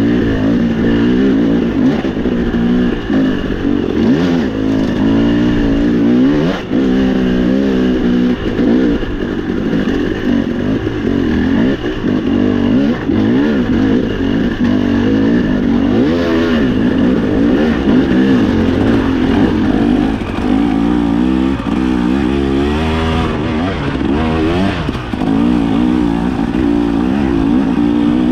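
Dirt bike engine under way, revving up and down again and again as the throttle is worked.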